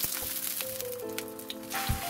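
Egg-battered thin beef slices sizzling in oil in a nonstick frying pan, with a short, louder hit near the end as another slice goes into the pan. Background keyboard music plays throughout.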